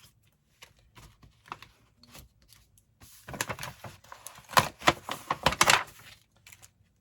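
Paper rustling and crinkling, with sharp clicks and taps of hard HDF magnet blanks being handled, as sublimation transfer paper is taken off the freshly pressed blanks. A few light taps at first, then about three seconds of dense rustling and clicking about halfway through.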